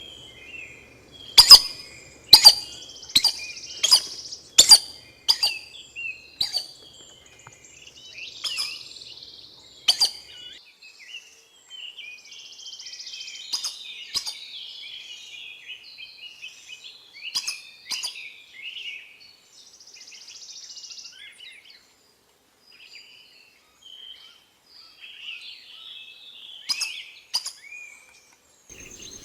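Wild birds calling. About a second and a half in comes a run of seven or eight sharp, loud notes under a second apart. After that, softer chirps and twitters are scattered through, with a few more sharp notes.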